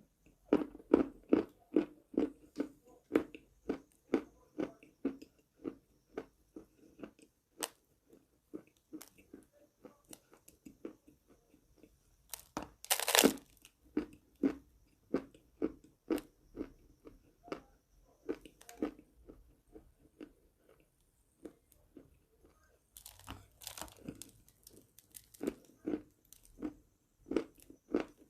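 A person biting and chewing pieces of eating chalk close to the microphone: a run of dry crunches, roughly two a second. A louder, longer crunch comes about halfway through, and a burst of louder bites follows near the end.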